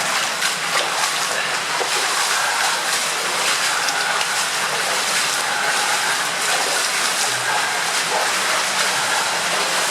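Steady rush of water from an underground waterfall in a flooded tunnel, with splashing from people wading through the water.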